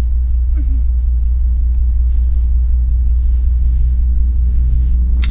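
Steady low rumble of an idling car engine heard from inside the cabin, with a sharp click near the end.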